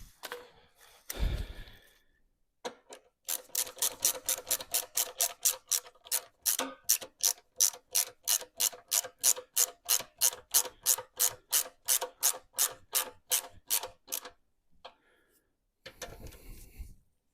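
Hand socket ratchet clicking steadily, about three clicks a second for around ten seconds, as a bolt or nut is wound in on the engine. A single low knock comes about a second in.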